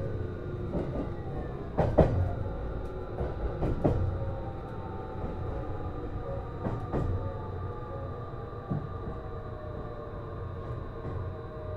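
Interior running sound of a JR East Series HB-E210 hybrid train slowing down: the traction motor and inverter whine falls steadily in pitch, with a few sharp knocks from the wheels over rail joints.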